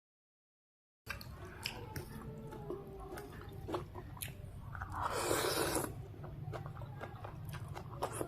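After about a second of dead silence, close-miked mouth sounds of someone chewing and biting noodle soup, with many small wet clicks. One louder, longer noisy sound comes about five seconds in.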